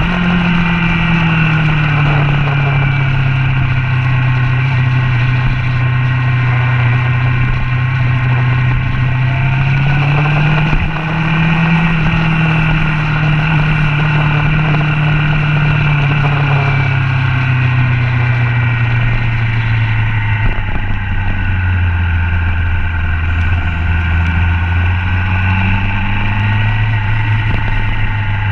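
Motorcycle engine running under load on a racetrack, heard from a camera mounted on the bike. Its pitch holds steady, rises about eleven seconds in, falls slowly to a lower steady note, and climbs again near the end as the rider works the throttle and gears through the corners.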